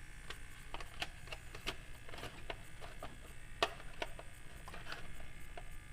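Irregular light clicks and knocks of hard plastic parts being handled and fitted, as a cover goes onto a Kyosho Blizzard RC tracked snowcat, the sharpest knock about three and a half seconds in. A faint steady hum lies underneath.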